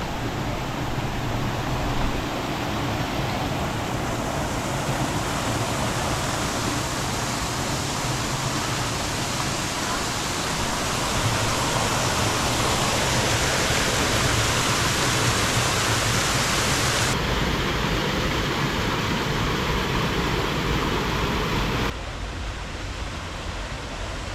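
Aira Force waterfall: a steady rush of falling water. The sound changes abruptly twice, dropping in level near the end.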